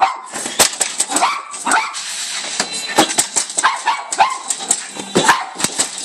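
A dog barking rapidly and excitedly, mixed with sharp knocks on a garage door. This is alert barking, the dog taking the knocking for someone outside.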